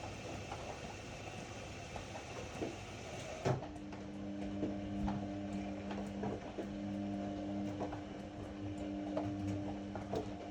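Ariston AML125 washer-dryer running. About three and a half seconds in there is a click, then a steady hum joins the machine noise, with light clicks scattered through it.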